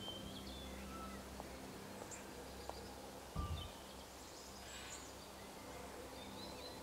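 Quiet park ambience with scattered short bird chirps over a steady low hum. A single dull, low thump sounds about halfway through.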